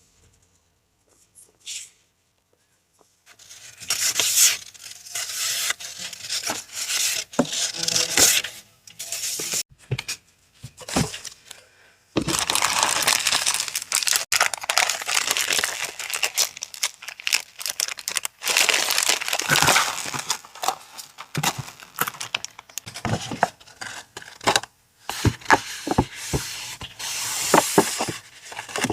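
Paper and packaging handled close up: rustling, crinkling and tearing with frequent sharp crackles. It starts after about three seconds of near silence, runs continuously through the middle, then comes in shorter bursts.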